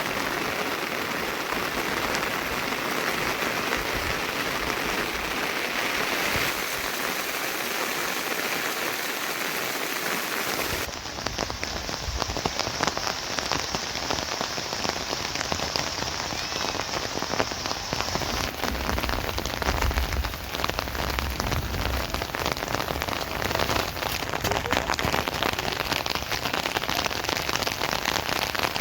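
Steady rain falling. About a third of the way in the sound changes abruptly to closer, denser drop impacts with a deeper rumble underneath.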